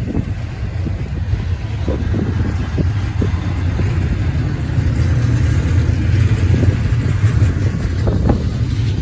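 Intermodal freight cars rolling past, a steady low rumble of wheels on rail with scattered knocks and clatters, growing a little louder about halfway through. Wind buffets the microphone.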